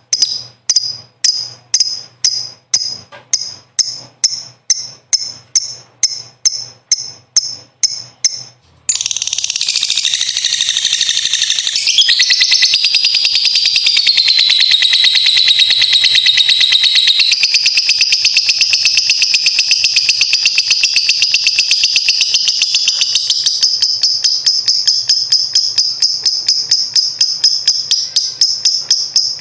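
Lovebird calling: sharp high chirps about twice a second, then, about nine seconds in, a long unbroken rapid trill (ngekek panjang) that steps up and down in pitch.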